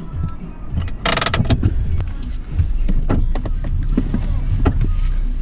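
2013 Toyota 4Runner SR5 V6 driving on sand dunes: a steady low rumble broken by repeated knocks and rattles, with a loud burst of noise about a second in.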